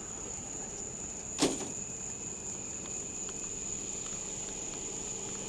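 A single sharp knock about a second and a half in, the loudest sound here, with a few faint small clicks, over a steady high-pitched chorus of insects.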